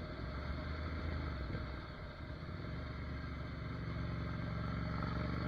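Ducati Monster 797's air-cooled L-twin engine running under way, with wind rush over the helmet camera. The engine note dips briefly about two seconds in, then comes back steadier and stronger.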